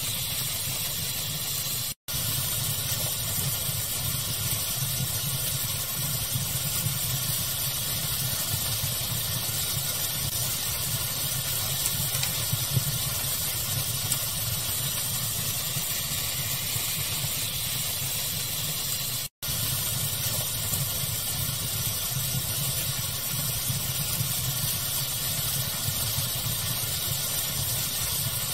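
Steady hiss of fire-crackling ambience used as pink noise, with a few faint crackles. It drops out for an instant twice, once about two seconds in and once about two thirds of the way through.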